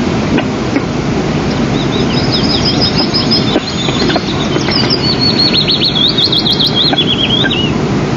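A bird gives two runs of quick, high chirping notes, the second run longer and dropping in pitch at the end, over a loud, steady rushing noise like wind on the microphone.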